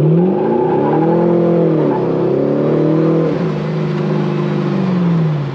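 Chevrolet Camaro engine and newly extended exhaust under hard acceleration. The revs climb, drop sharply twice, about two and three seconds in, then hold and fall away.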